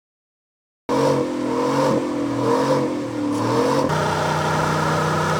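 Car engine revving, the pitch rising and falling several times, then held steady at higher revs from about four seconds in. The sound cuts in abruptly about a second in.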